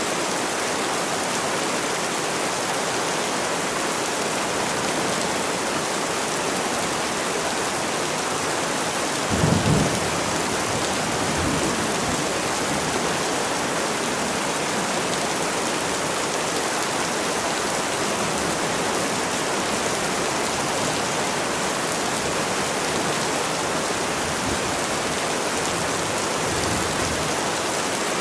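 Steady rain falling. A brief low rumble of thunder about nine seconds in, with fainter low rumbles later.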